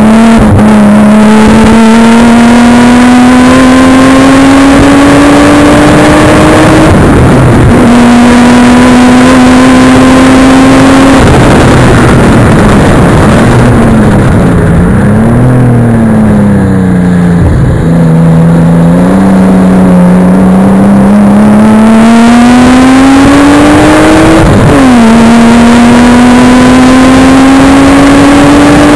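Nissan Skyline R33's turbocharged straight-six under hard acceleration on track. Its pitch climbs steadily and drops sharply at upshifts about seven, eleven and twenty-five seconds in, with a stretch in the middle where the revs dip and waver. Very loud, close to the microphone's limit.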